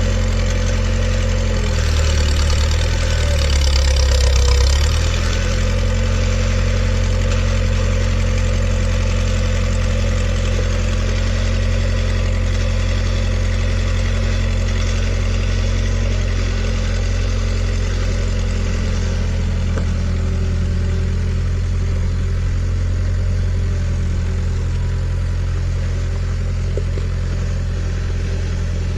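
An engine running steadily, its note changing and briefly getting louder about two seconds in before settling back.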